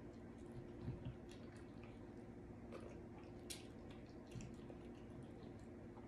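Faint wet chewing and mouth smacking of saucy barbecue rib tips, with scattered short sticky clicks and squishes.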